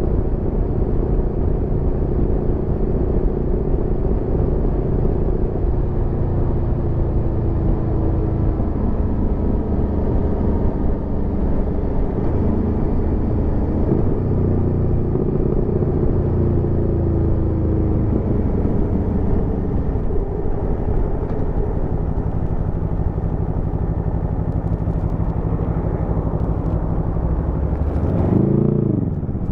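Aprilia Tuono V4 motorcycle's V4 engine running while riding on the road, its pitch easing down slowly twice as the throttle is rolled off. Near the end the revs shoot up and drop back quickly.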